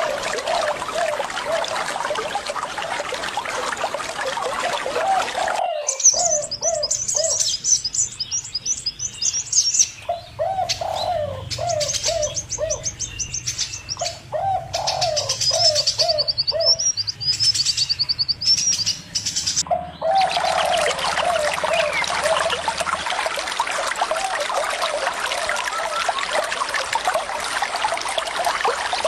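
A dove cooing in repeated low notes and small birds chirping high, over the steady rush of running water. The water sound cuts out abruptly about six seconds in, leaving the birds clearer, and comes back just as suddenly about twenty seconds in.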